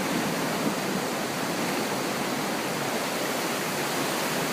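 Floodwater rushing steadily in a swollen backyard creek, an even, unbroken hiss of flowing water.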